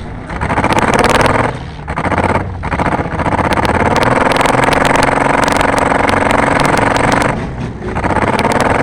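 Car engine held at high revs under hard throttle, lifting off briefly about two seconds in and again near the end, with sharp rattling clicks over it.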